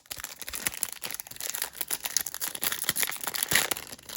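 Crinkly plastic wrapper of a Panini Mosaic football card pack being handled and torn open: a dense, continuous run of crackles.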